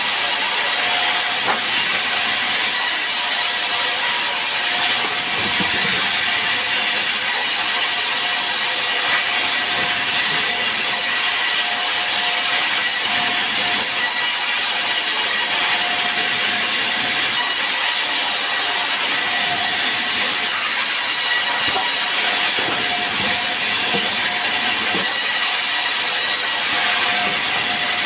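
Sawmill saw running steadily: a constant loud hiss with a faint steady whine.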